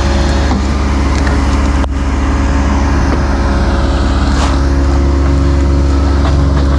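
Diesel engine of heavy earthmoving equipment running steadily at close range, a deep hum with a steady pitched drone, with a few light clanks over it.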